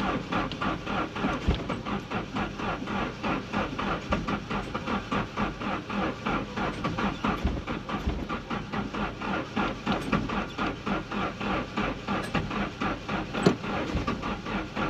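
Nissan 240SX engine being cranked over by the starter with an even rhythm of about four to five beats a second, turning over without catching: a no-start.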